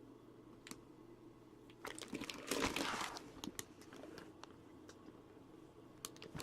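Faint crinkling and rustling of packaging being handled, mostly between about two and three seconds in, with a few small clicks scattered around it.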